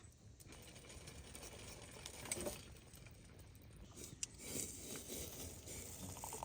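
Light patter of rain, uneven in level, with a few soft knocks and one sharp click about four seconds in.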